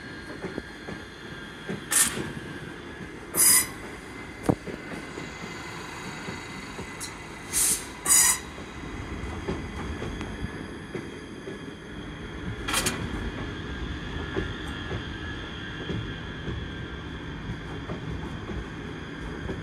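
ScotRail electric multiple unit rolling slowly past with a steady low rumble of wheels on rail. Several short, sharp wheel squeals cut through, the loudest a few seconds in and near the middle, along with a few clicks from the rail joints.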